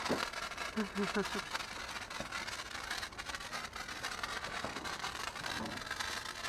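A lit sparkler fizzing and crackling steadily, a continuous hiss peppered with tiny pops.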